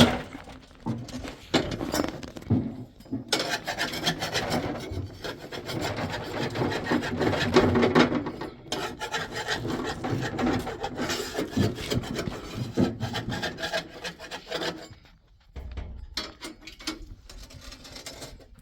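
Irregular scraping and rubbing noises mixed with scattered knocks, busiest in the first half and thinning out near the end.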